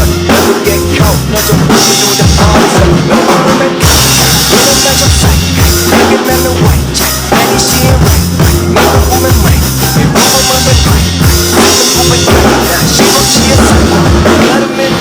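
Drum kit played over the backing track of a hip-hop song: a steady beat of kick drum, snare and rim hits, with the song's held bass and melody notes underneath.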